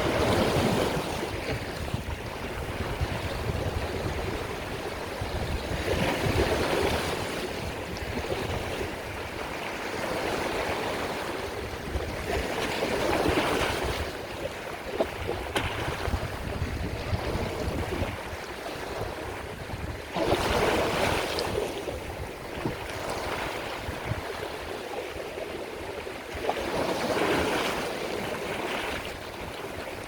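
Sea waves breaking and washing in, five swells of surf about seven seconds apart over a steady rush of water.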